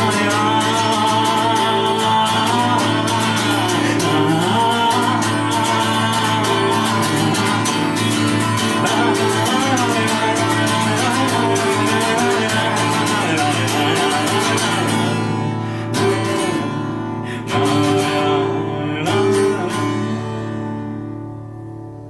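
Acoustic guitar strummed steadily as a song's closing instrumental, breaking off into a few last separate strums in the final seconds and then ringing away to silence.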